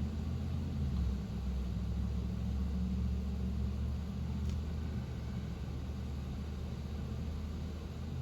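Engine running steadily at idle: a low, even hum with no change in pitch.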